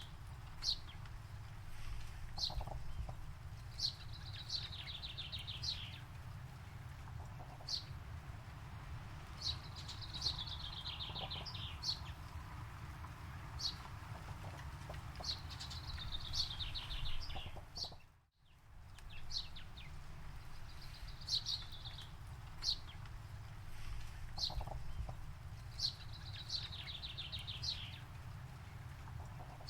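Forest birdsong: birds give short, sharp high calls and trilled runs of notes every couple of seconds, over a steady low rumble. The sound cuts out for a moment about two-thirds of the way through.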